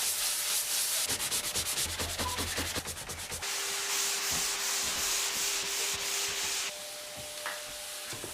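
Scrubbing and rubbing on a surface: quick, even back-and-forth strokes at first, then a steadier scraping hiss that drops abruptly to a quieter rub near the end.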